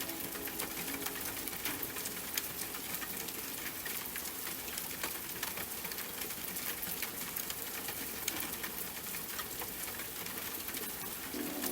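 Steady rain with many individual drops ticking, heard alone. A soft held music chord fades out at the start and comes back near the end.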